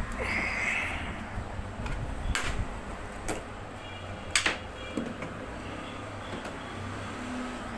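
Several separate sharp clicks and light knocks, the loudest about halfway through, with a short hiss in the first second, over a steady low hum.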